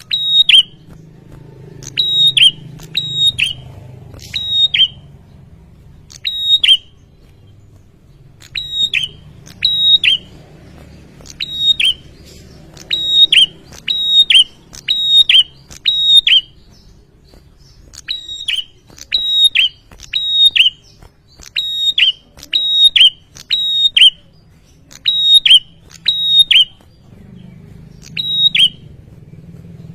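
Male prinia (prenjak) calling insistently: loud, sharp, high notes in quick clusters of two to four, repeated every second or two.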